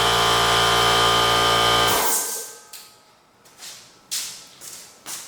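A small electric motor, like a power tool, runs steadily with a high whine, then winds down and stops about two seconds in. After that come a few sharp clicks and knocks.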